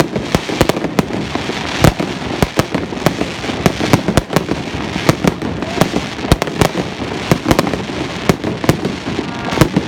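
Fireworks going off: a rapid, irregular string of sharp bangs, several a second, over a constant haze of further bursts.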